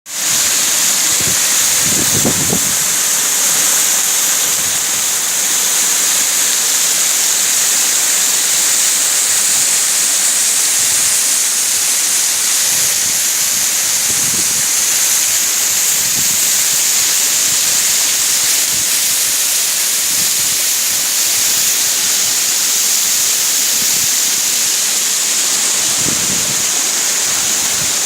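Steady, loud rush of falling water from a tall waterfall, with a few brief low bumps.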